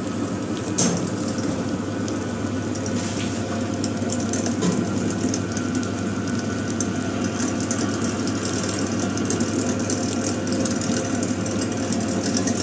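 Electric meat mincer running steadily as it grinds chicken into keema: a constant motor hum with a fine crackly grinding noise over it, and one short knock about a second in.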